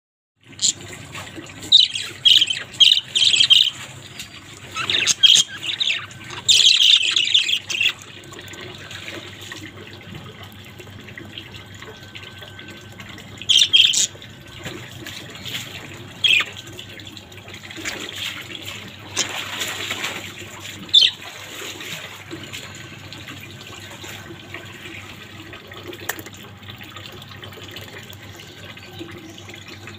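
Budgerigars chirping and squawking in quick, shrill bursts, dense through the first several seconds, then a few single calls, over a steady low hum.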